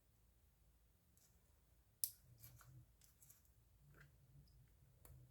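Faint small plastic clicks and ticks from connector plugs being handled and pushed into an RC car's receiver, with one sharper click about two seconds in.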